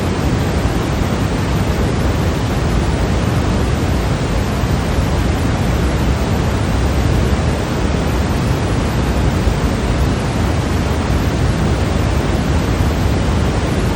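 Steady electronically generated white noise, a constant even hiss that is heavier in the bass and never changes.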